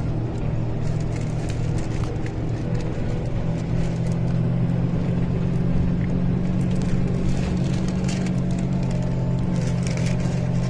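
A vehicle engine running, a steady low drone with faint scattered ticks above it.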